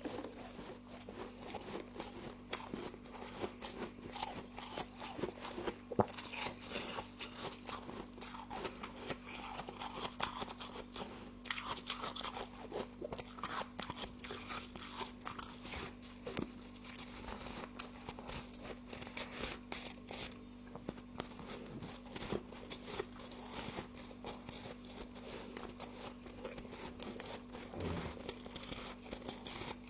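Close-up crunching and chewing of mouthfuls of packed frost: dense, irregular crunches with repeated bites throughout. A steady low hum runs underneath.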